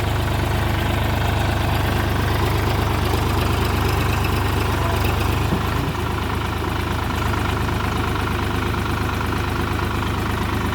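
Solis 5015 tractor's diesel engine running steadily, with a low, even drone that eases off slightly about six seconds in.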